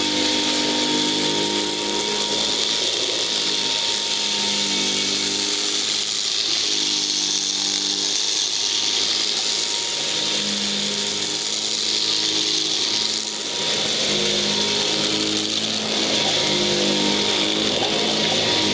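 Royal Model 608 upright vacuum with its 3-amp motor and metal fan running steadily while picking up birdseed. It gives a high whine and hiss, with a lower hum that keeps shifting in pitch.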